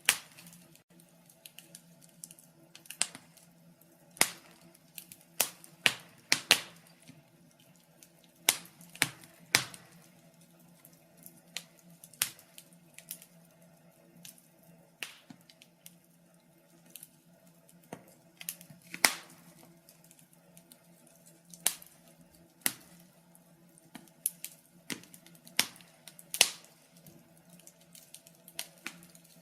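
Fire crackling: irregular sharp pops and snaps, a few in a cluster, then gaps of a second or two, over a faint steady low hum.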